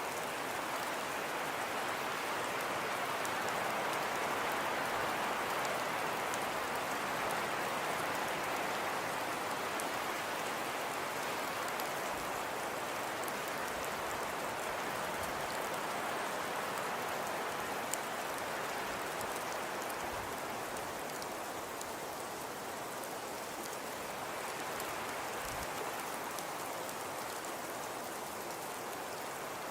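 Fireplace crackling: a steady hiss of burning with many small, scattered crackles and pops.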